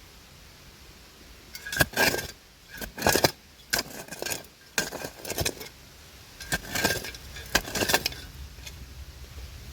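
A metal shovel scraping and striking through dirt packed with broken glass and metal debris, about six strokes between about 1.5 and 8 seconds in, each with a clinking, ringing edge.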